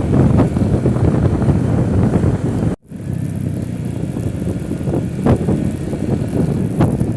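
Wind buffeting the microphone, a steady rumble that cuts out abruptly for a moment about three seconds in and then carries on a little quieter.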